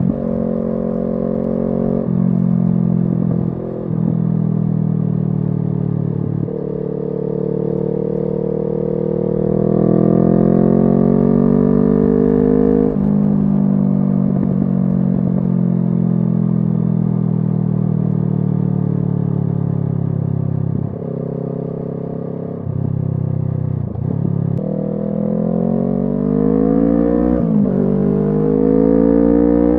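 Kawasaki Z650 parallel-twin engine running through an SC Project aftermarket exhaust while riding. The note climbs in pitch under acceleration, drops suddenly at gear changes or when the throttle closes, and holds steady while cruising, several times over.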